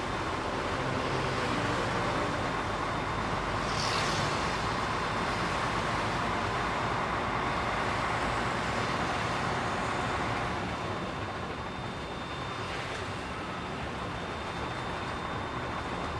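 Container truck driving along the road, with steady engine and road noise and a brief hiss about four seconds in.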